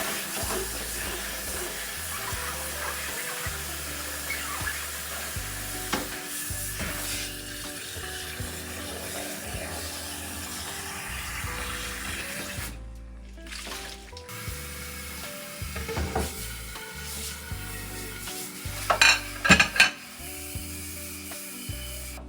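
Kitchen sounds: a steady sizzling hiss, with dishes clattering a few times in the second half, loudest near the end, over soft background music.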